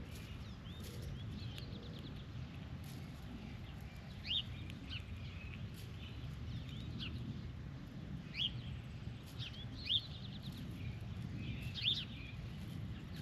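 Birds chirping in short, separate calls a few seconds apart over a steady low rumble.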